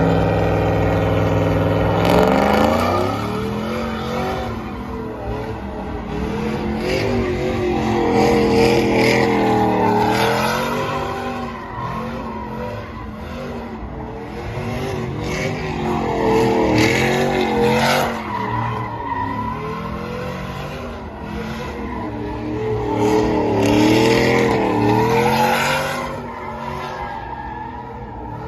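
Vehicle engine revving at high rpm, its pitch climbing about two seconds in, followed by wavering, rising and falling tire squeal.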